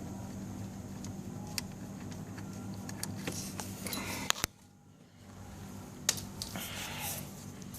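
Scattered light metallic clicks and knocks of tools and parts being handled while the scooter's starter motor is being worked loose, over a steady low hum. The sound drops almost away for about half a second a little past halfway, then the clicking resumes.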